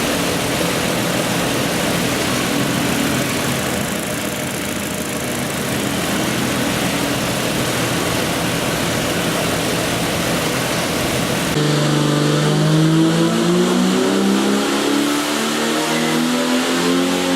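Jeep 4.6-litre stroker straight-six running on an engine dyno: steady running at first, then from about 11 seconds in its note climbs steadily as the revs rise through a dyno pull.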